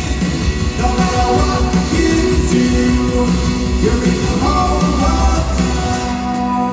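Rock band playing live in an arena: electric guitars, drums and a sung vocal over sustained chords.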